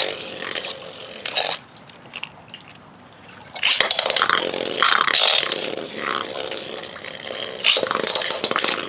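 Beyblade spinning tops launched with ripcord launchers, spinning and scraping in a plastic stadium. From about three and a half seconds in they clash in a dense run of sharp hits.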